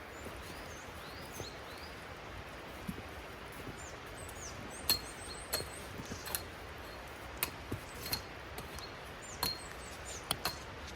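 Small birds chirping in short high calls in the first two seconds and again about four seconds in, over a steady hiss, with about ten sharp knocks or clicks scattered through the second half, the loudest sounds.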